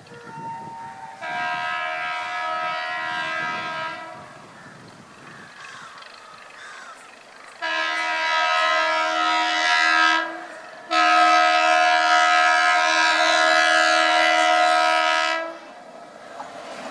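Indian Railways train horn sounding three blasts: one of about three seconds, then two longer ones close together with a short break between, the last about four and a half seconds.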